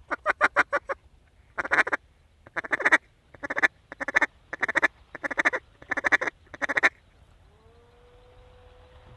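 Mallard quacking: loud, close series of rapid quacks in about eight bursts over the first seven seconds, then stopping.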